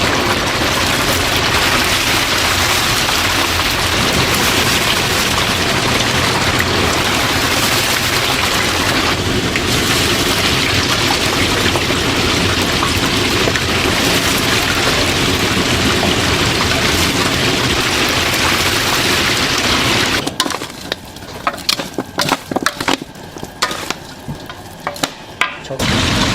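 Chicken deep-frying in hot oil, a loud, steady, dense sizzle. About 20 seconds in, the sizzle drops away to scattered crackles and pops for several seconds.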